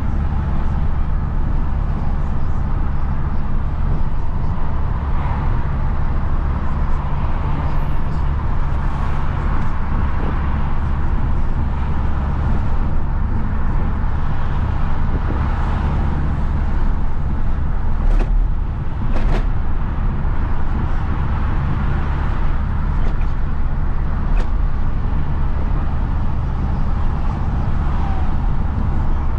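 Isuzu FRR90 truck's diesel engine running steadily on the move, a constant low drone over road noise. Two short sharp knocks come close together about two-thirds of the way through.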